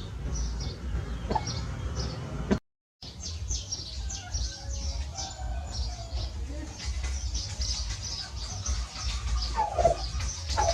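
Birds chirping in quick short notes over a low rumble, with chickens clucking, louder calls coming near the end. The sound cuts out completely for about half a second near the three-second mark.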